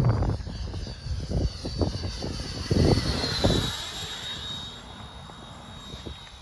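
Radio-controlled model L-39 jet flying past with a thin high whine that drops in pitch about three to four seconds in as it passes by. Wind buffets the microphone with gusts and thumps in the first half.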